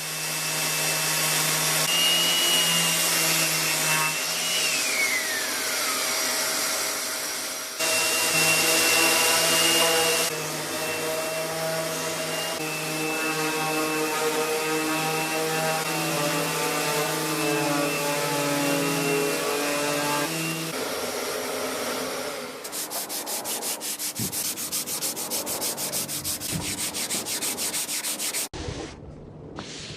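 Electric circular (orbital) sander running on the wooden drawers, a steady machine whine over the rasp of the abrasive on wood. About four seconds in, the whine glides down in pitch. Later the sound changes to a fast, even pulsing rasp.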